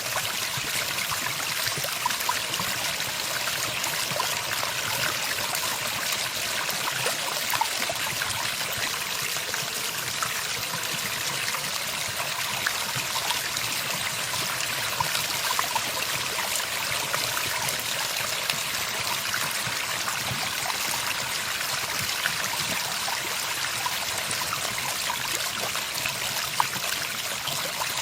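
Steady running water, a stream trickling and splashing without a break.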